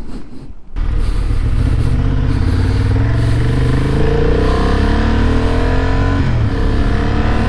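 Motorcycle engine accelerating hard, its pitch climbing, with an upshift about six seconds in before it climbs again, over rushing wind noise. It cuts in suddenly just under a second in, after a muffled, quieter stretch.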